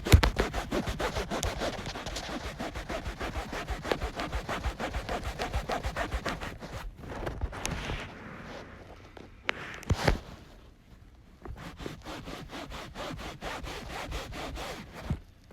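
Rapid back-and-forth scrubbing of a stain in a truck seat's upholstery, about five strokes a second. After about seven seconds it turns fainter and broken up, with a couple of short knocks.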